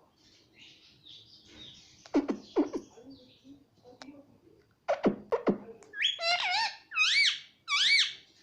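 Ring-necked parrot vocalising: soft breathy sounds, then a few sharp falling notes, and near the end a run of quick warbling calls that swoop up and down in pitch.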